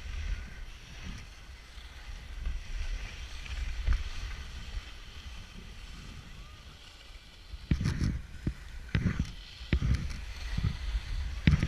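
Skis sliding on snow with wind rumbling on the microphone, and a run of sharp scrapes or knocks near the end.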